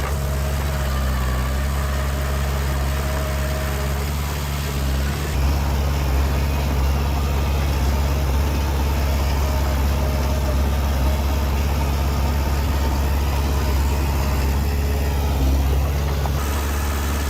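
Heavy diesel engine of earthmoving machinery running steadily at low revs. Its note changes a little about five seconds in and returns near the end.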